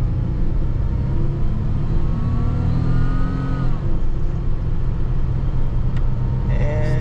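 Supercharged Buick V6 under hard acceleration, with a thin whine rising in pitch over the engine and road noise. The whine breaks off a little under four seconds in, leaving a steadier engine and road noise.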